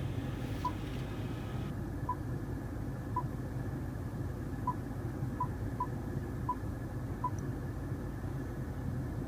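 About eight short electronic beeps at uneven intervals: the Range Rover Evoque's control-button confirmation tones as the climate and heated/ventilated seat buttons are pressed. Under them runs a steady low hum inside the cabin.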